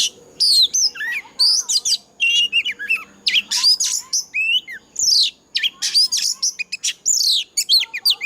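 Oriental magpie-robin singing a rapid, varied string of loud whistled phrases, many sweeping down in pitch, mixed with short sharp notes; this is the full song of a mature wild bird.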